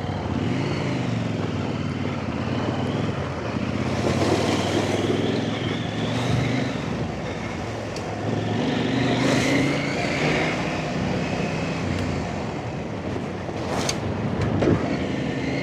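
Off-road trail motorcycle engine running under a riding load, its pitch rising and falling with the throttle, with stretches of noisy rushing and a single sharp knock about fourteen seconds in.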